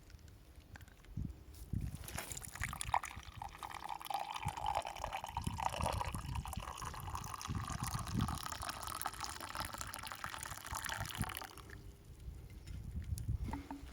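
Liquid poured in a steady stream, starting about two seconds in and stopping about ten seconds later.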